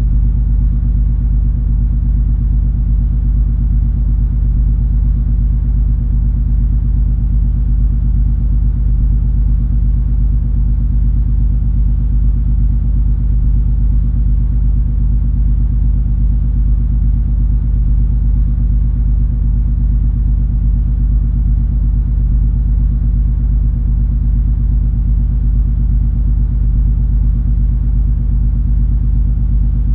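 Steady low drone of the cruise ferry MS Color Magic's engines and machinery, a deep, constant rumble with an even hum and no change in pitch or level.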